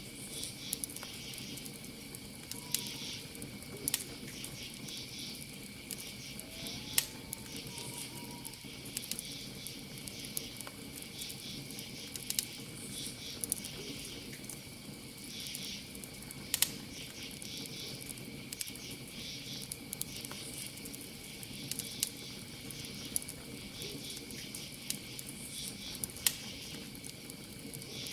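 Campfire crackling, with sharp pops every second or two, over crickets chirping in a steady high trill.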